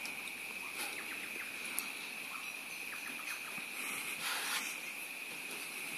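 Steady high-pitched insect drone, like crickets or cicadas, with a few faint chirps and ticks and a brief rustle about four seconds in.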